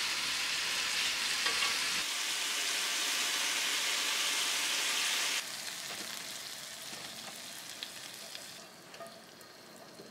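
Seasoned beef sizzling as it fries in a frying pan, stirred with chopsticks. The sizzle drops sharply about five seconds in and keeps fading as the pan is tipped out onto a tray, leaving a few light clicks near the end.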